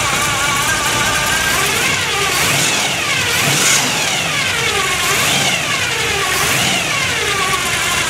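A 1957 Chevy's 350 small-block V8 on two four-barrel carburetors idles, then is revved up and let back down three times before settling to idle again. A whine from its noisy Pete Jackson gear-drive timing set rises and falls with the revs.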